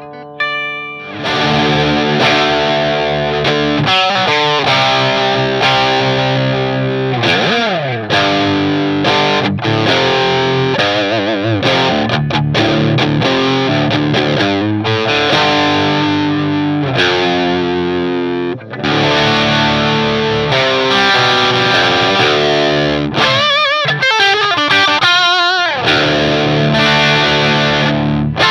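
Music: electric guitar played with distortion and effects, a dense driven passage that kicks in loudly about a second in, with bent, sliding notes and wavering vibrato along the way and a brief break about two-thirds through.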